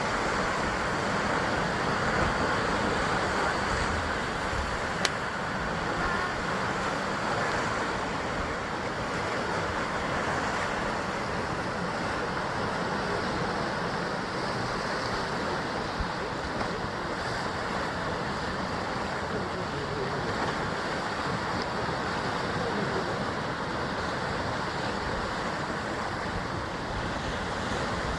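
Sea waves surging and washing against a rocky basalt coastline: a steady, continuous rush of surf, with one sharp click about five seconds in.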